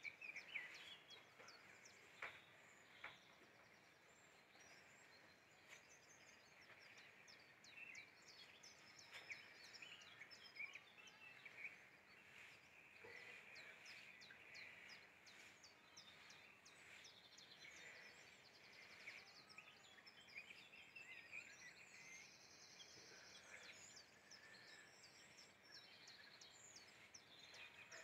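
Faint birdsong: many quick high chirps and short trills over a soft outdoor hiss.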